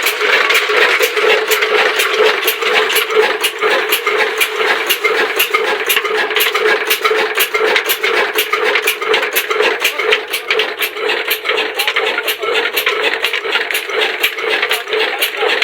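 Old stationary 'black engine' diesel driving an atta chakki flour mill, running steadily: a loud mechanical din with a constant hum and a regular sharp knock about four times a second.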